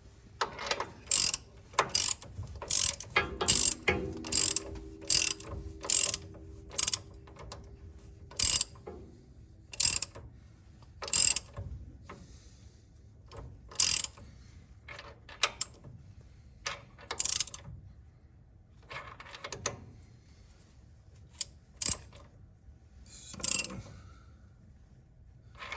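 Hand socket ratchet worked in strokes, its pawl clicking sharply on each swing as a bolt is tightened to draw a new bushing into place. The clicks come closely spaced for about the first twelve seconds, then slower and more scattered.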